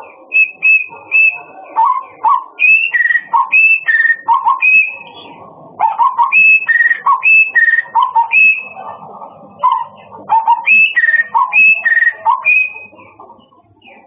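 A murai songbird singing loud, clear whistled phrases, a pattern of high and lower notes repeated over and over, with short breaks about five and nine seconds in.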